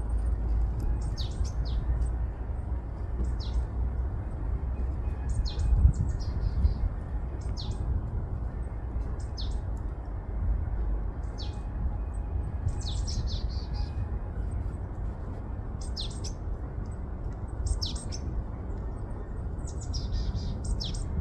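Small birds chirping in short, quick falling calls, scattered every second or so, over a steady low rumble of wind buffeting the microphone.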